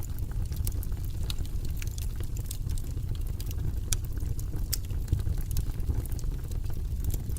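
Wood fire burning in a fireplace, with a steady low rumble and frequent scattered crackles and pops.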